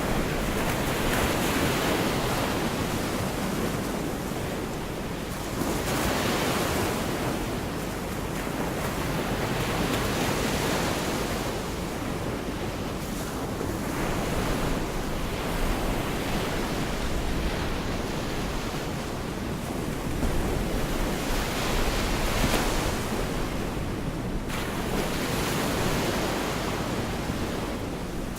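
Gulf of Mexico surf washing onto the beach, waves breaking and rushing in every few seconds over a steady wash, with low wind rumble on the microphone.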